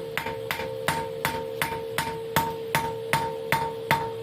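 Hand hammer striking hot high-carbon steel on an anvil in an even rhythm of about two and a half blows a second, drawing out a tapered point from an old file, with a steady ringing tone underneath.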